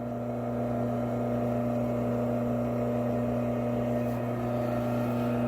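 Drill press running steadily with a constant electric-motor hum while its arbor runs with severe runout, a visible wobble from a bent section of the arbor.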